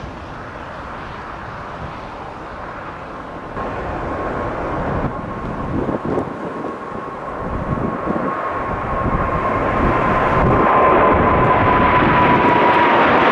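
Boeing 777 twin jet engines running at takeoff power, a steady roar that grows steadily louder. A high engine whine comes in a few seconds in and drops slightly in pitch near the end.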